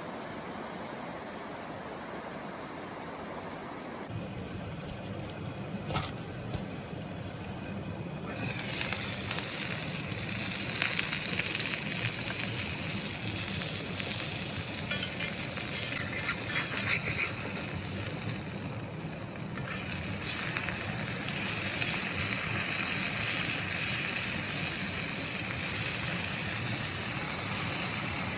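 Food sizzling in a hot pan, with scattered small crackles and spits; the sizzle becomes much louder and brighter about eight seconds in.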